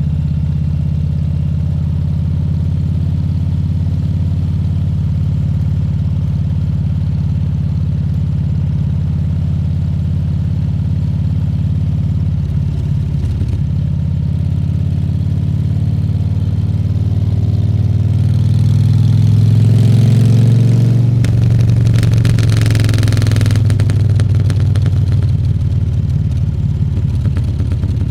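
Harley-Davidson Fat Bob 114's Milwaukee-Eight 114 V-twin running under way, holding a steady speed, then getting louder and rising in pitch as it accelerates about two-thirds of the way through. A brief rush of hissing noise follows.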